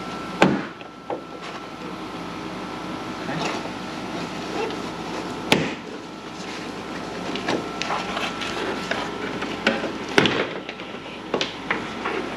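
Scattered knocks and clicks of hand work on a kei truck's plastic cowl panel as it is pried and handled off, with three sharper knocks: one about half a second in, one near the middle and one about ten seconds in.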